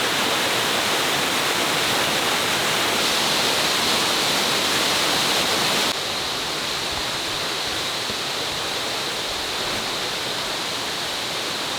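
Waterfall rushing water, a steady even roar. About halfway through it abruptly becomes a little quieter.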